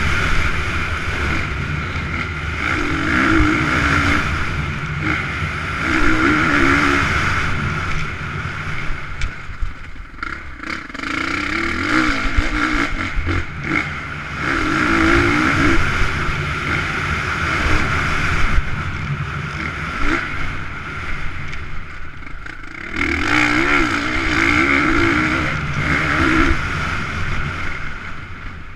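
Motocross motorcycle engines revving hard as riders race past, the engine pitch rising and falling in repeated surges, louder and quieter in waves as the bikes come and go.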